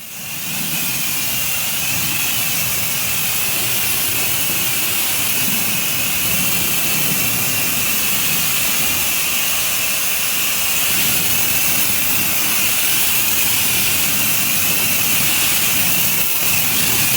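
Gas-engine pressure washer running, its high-pressure water spray hissing steadily as soap is rinsed off a deck.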